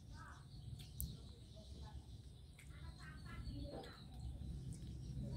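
Faint bird calls, short chirping phrases near the start and again about three seconds in, over a low steady hum.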